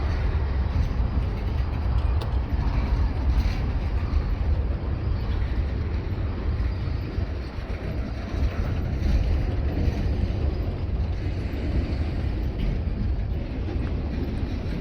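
Train rolling past on the track: a steady, continuous rumble of wheels on rail with a few faint clicks.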